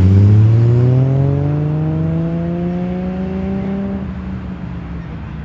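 A car engine accelerating away, its note rising steadily in pitch for about four seconds, then breaking off as the sound fades.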